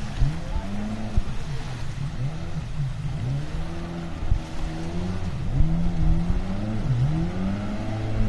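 Jet ski engine running, its pitch dipping and climbing again and again as the revs rise and fall.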